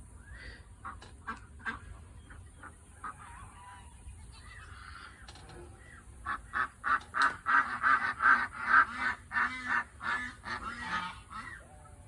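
Domestic waterfowl calling: a few scattered calls, then from about six seconds in a loud run of rapid calls, several a second, for about five seconds.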